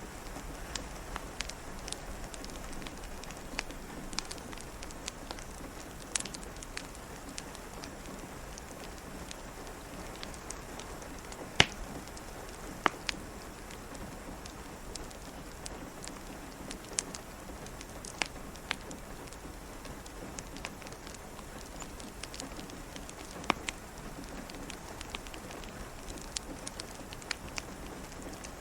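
Wood fire crackling, with sharp pops scattered throughout and the loudest about midway, over a steady hiss of rain.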